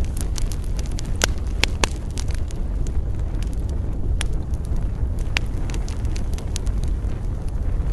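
Wood campfire burning: irregular sharp crackles and pops, a few of them louder snaps, over a steady low rumble.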